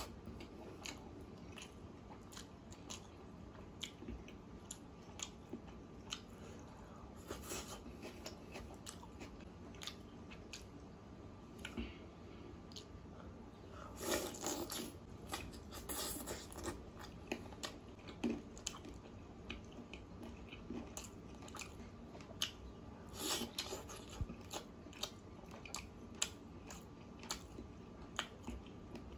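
Close-up chewing of mouthfuls of rice and chicken curry eaten by hand, a run of short wet mouth clicks, with louder bursts of chewing about 14 to 16 seconds in and again around 23 seconds.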